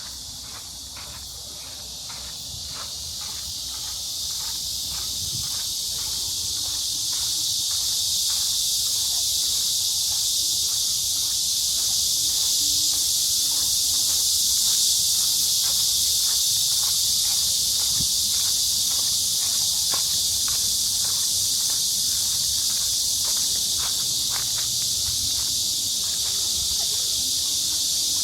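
A loud, steady chorus of cicadas buzzing, swelling over the first several seconds, with footsteps of someone walking at about two steps a second underneath.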